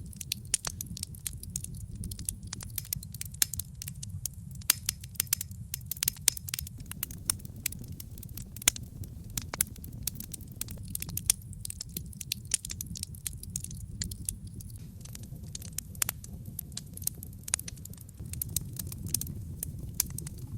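Wood logs burning in a fireplace: dense, irregular crackles and pops, some sharper and louder than others, over a steady low rumble of the flames.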